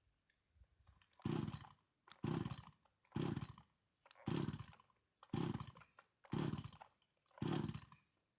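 Chinese two-stroke chainsaw being pull-started: seven quick yanks on the recoil starter cord, about one a second, each a short cranking whirr that fades without the engine catching. The owner suspects the spark plug.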